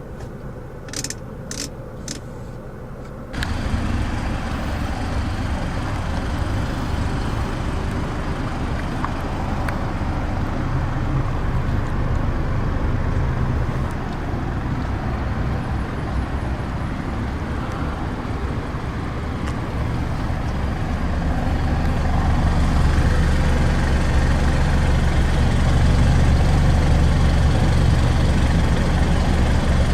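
A few sharp clicks, then, starting suddenly about three seconds in, a loud steady vehicle engine rumble with road or traffic noise, growing louder about two thirds of the way through.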